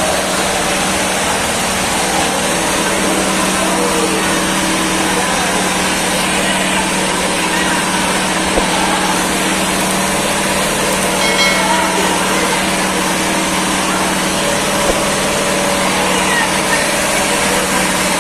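A small engine running steadily, with a constant low hum under a loud, even rush of noise.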